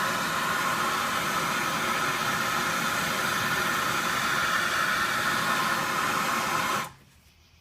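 A loud, steady hiss while the Mustang's exhaust manifold is being cleaned, cutting off abruptly about seven seconds in.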